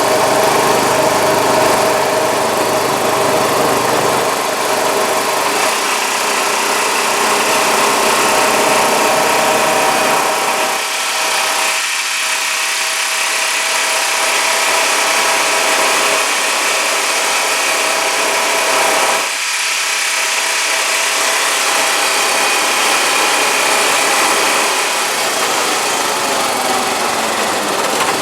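Honda side-by-side four-wheeler's engine running steadily as it drives along, with a steady rushing noise over it. The engine note eases off briefly twice in the middle.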